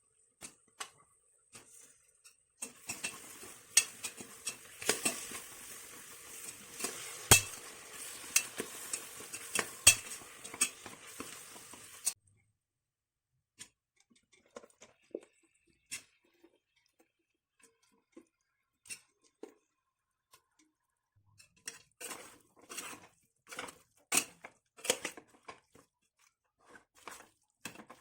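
A spoon stirring and knocking against a cooking pan over a steady sizzling hiss; the hiss cuts off suddenly about twelve seconds in. Scattered clinks and taps of utensil on pan follow, busier near the end.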